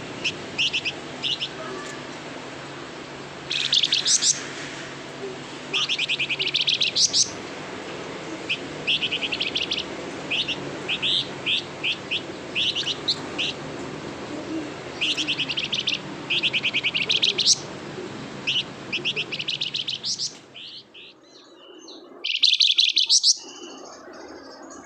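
Flamboyan songbird singing energetically: repeated short bursts of rapid, high chirps and trills with brief pauses between them. A steady low hum underneath drops away about 20 seconds in.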